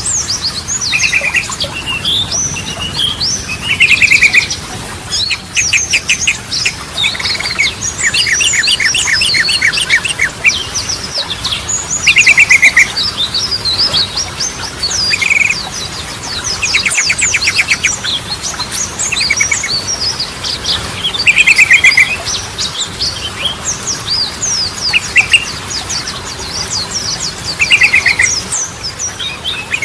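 Yellow-vented bulbul (trucukan) singing continuously: bubbly, chattering phrases of quick chirps mixed with fast rattling trills. A short rattling phrase recurs every few seconds.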